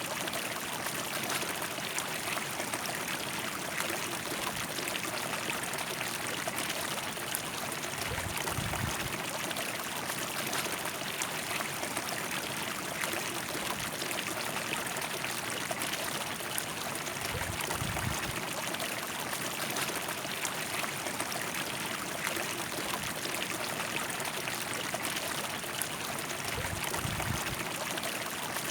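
A river flowing: steady rushing and trickling water, with a few brief low rumbles about every nine seconds.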